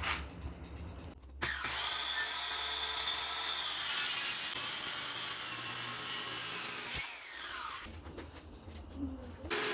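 Electric power saw cutting wood: it runs steadily for about five seconds, then winds down with a falling pitch when released, and starts up again near the end.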